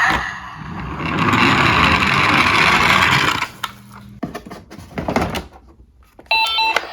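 Diecast toy cars rolling down a plastic slope, a steady rolling rattle for a couple of seconds, then a few knocks as they clatter to a stop. Near the end a short electronic beeping tune starts.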